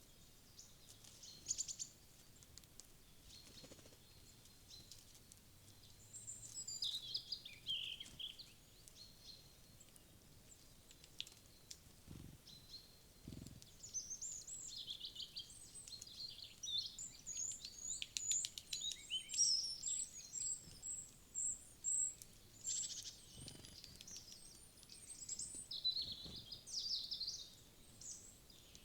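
Small forest birds chirping and calling in short high notes, sparse at first and busier after the middle, with a quick run of repeated high notes. A few soft low thuds in between.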